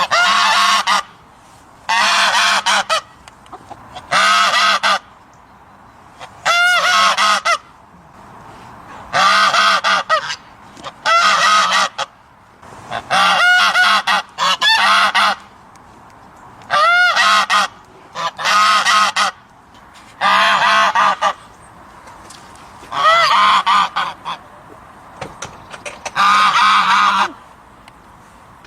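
An animal giving repeated honking calls, about a dozen in a row. Each call lasts roughly a second, with short pauses between them.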